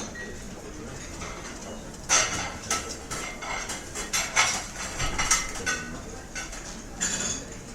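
Restaurant ambience: cutlery and dishes clinking, with a run of sharp clinks in the middle and another near the end, over a steady background murmur of diners.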